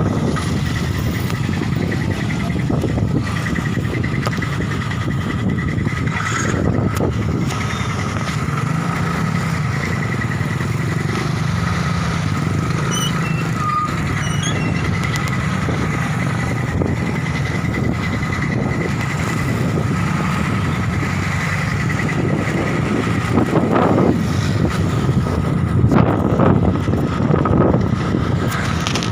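Strong wind rumbling on the microphone over steady road-traffic noise, with louder gusts in the last few seconds.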